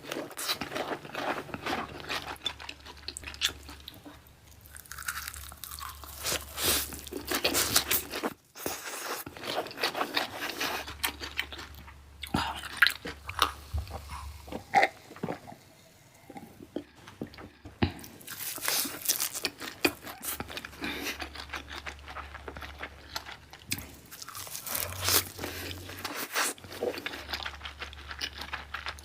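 Close-miked eating sounds of sushi: repeated biting and wet chewing with dense clicks and smacks, broken briefly about a third of the way in.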